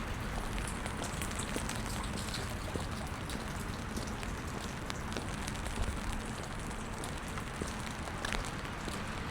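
Steady rain falling on pavement, with many small drop ticks scattered through it.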